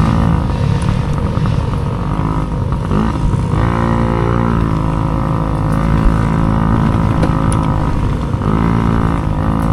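Mini dirt bike engine running hard under race load. Its pitch dips and climbs back up twice, as it does on shifts or throttle changes, and holds high in between.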